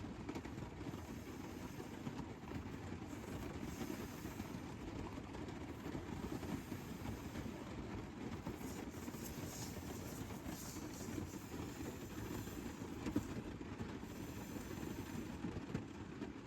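Light rain falling on a truck camper's roof, heard from inside: a steady, dense patter of drops, with one sharper tap about 13 seconds in.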